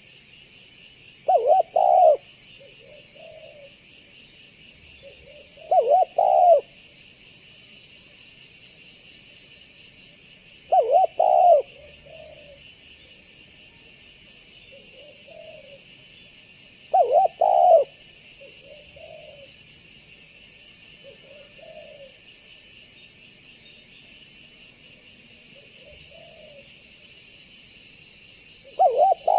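A spotted dove cooing in the deep 'banggo' style. Each phrase starts with a loud stressed double coo and trails off into softer coos, repeated roughly every five seconds. After a longer stretch of only soft coos, one more loud phrase comes near the end. A steady high-pitched insect-like chirring runs underneath.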